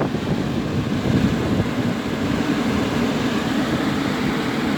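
Outdoor unit of an air conditioner/heat pump running in cool mode, its compressor and outdoor fan running with a steady hum.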